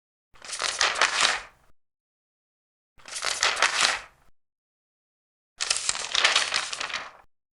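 Large paper pages being turned, three turns each with a crisp rustle of about a second and a half, separated by dead silence.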